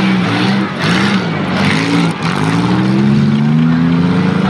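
Engines of small demolition derby cars revving as they manoeuvre on dirt, pitch rising and falling, then one long rising rev through the second half.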